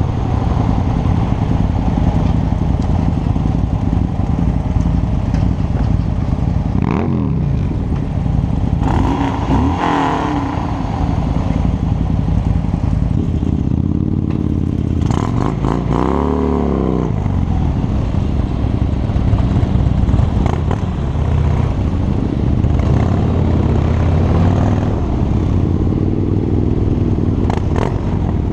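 Harley-Davidson motorcycle's V-twin engine running under way, its revs rising and falling a few times, most clearly a little past the middle.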